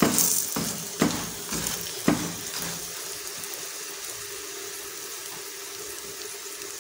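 Butter sizzling under a radish paratha on a hot iron tawa, a steady hiss. A few spoon strokes press the paratha in the first two seconds.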